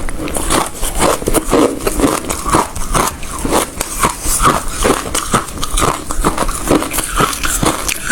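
Ice being bitten and chewed close to the microphone: a dense run of sharp crunches and crackles, several each second.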